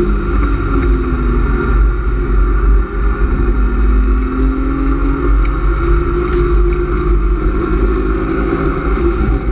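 BMW E36 328is's 2.8-litre straight-six, fitted with a cold air intake and an M50 intake manifold, heard from inside the cabin at track speed. The revs fall in the first second or so as the car slows, then climb again under acceleration, over steady road and wind rumble.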